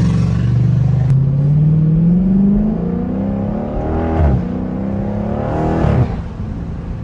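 Dodge Charger Scat Pack's 392 HEMI V8 accelerating, its pitch climbing, dropping sharply twice as the gearbox upshifts, then easing off to a quieter cruise near the end.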